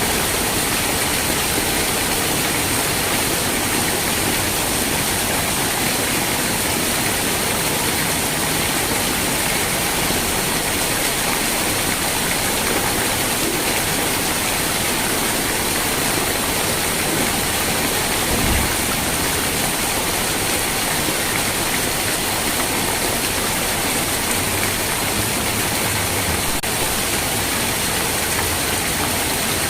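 Steady heavy rainfall, an even hiss of rain with no let-up. A single brief low thump sounds about two-thirds of the way through.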